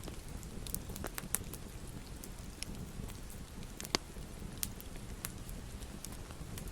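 Fireplace fire burning with a steady low rumble and irregular crackles and pops, one sharper pop about four seconds in.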